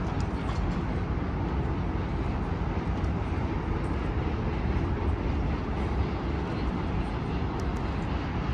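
Steady low rumble of city ambience: a constant wash of distant vehicle noise with no single event standing out.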